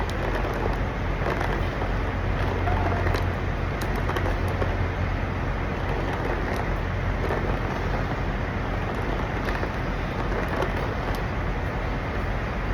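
Steady low rumble and hiss of trucks and traffic, a constant low hum under an even wash of noise, with a few faint clicks.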